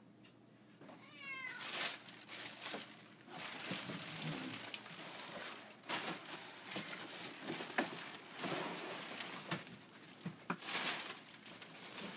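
A large cardboard box and a plastic-wrapped toy ride-on car body being pulled out and shifted: repeated rustling and scraping with a few sharp knocks. About a second in there is a short rising, pitched cry.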